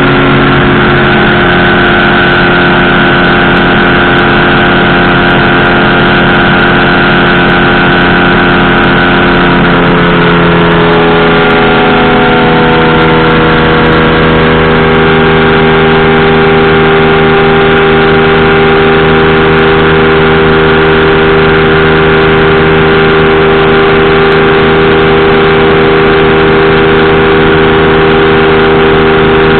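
Powered parachute's engine and propeller running loud and steady, the pitch rising a little about eleven seconds in and then holding.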